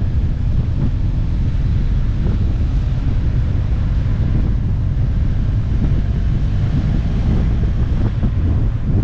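Heavy wind noise on the microphone of a motorcycle riding at speed, with the engine running steadily underneath.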